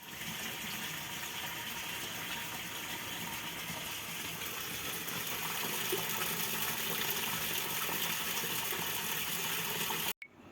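Running water, a steady rushing stream that cuts off suddenly about ten seconds in.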